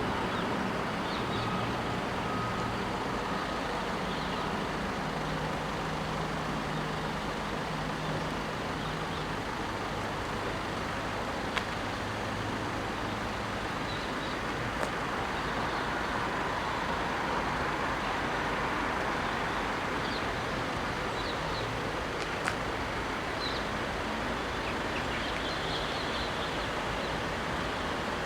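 Steady road traffic noise. A vehicle engine runs at a low, steady pitch for the first several seconds, and another vehicle passes in the middle. Faint bird chirps come in near the end.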